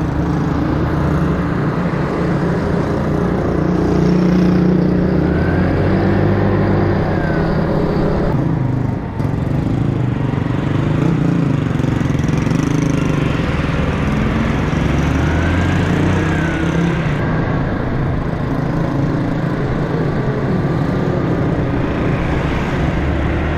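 Motorcycle engine running along a road, the engine note rising and easing off twice, with a short drop in level about nine seconds in.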